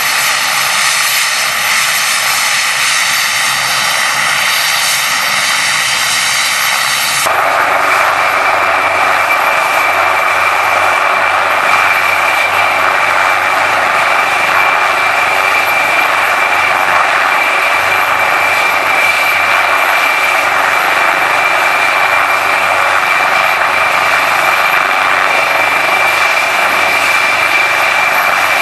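HM Coastguard search-and-rescue helicopter running with its turbine engines and rotor going steadily and loud. About seven seconds in the sound changes abruptly, growing fuller and taking on a steady high whine.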